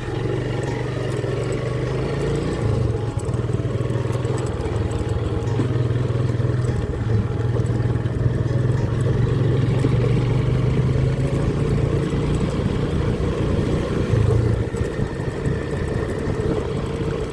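Small motorcycle's engine running at fairly steady revs while riding, with steady wind and road noise.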